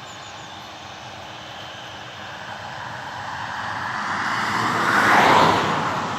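A vehicle passing close by, its noise building to a peak a little past five seconds in and then fading away.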